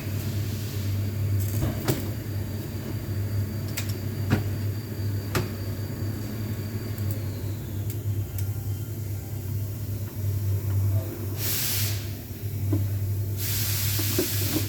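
Scania engine idling steadily, with scattered clicks and knocks in the first half and two hissing bursts near the end.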